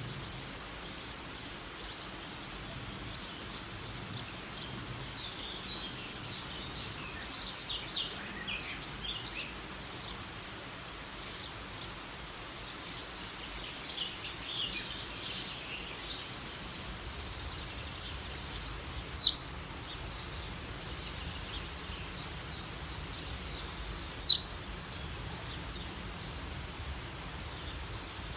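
Wild birds calling over a steady outdoor background hiss: scattered high chirps, then two short, loud, high calls about five seconds apart in the second half.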